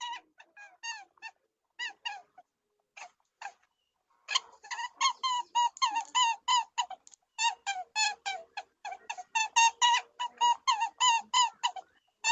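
An animal's short, squeaky calls, each dipping in pitch. They come in scattered groups at first, then from about four seconds in as a fast, steady run of about five a second.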